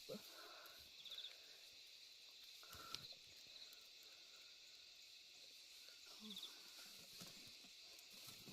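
Near silence: a faint steady high hiss, with two brief high chirps and one light click.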